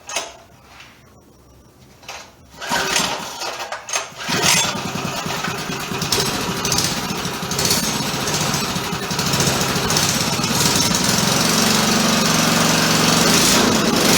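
Small minibike engine being cranked on starting fluid: a few knocks and brief bursts, then about four seconds in it catches and runs steadily, getting a little louder near the end. This is the engine's first start.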